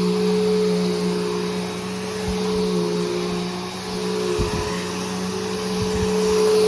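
Bissell Powerforce Helix Turbo upright vacuum cleaner running, a steady motor whine over a lower hum, its level dipping slightly in the middle. A few short low thumps come through near the middle and toward the end.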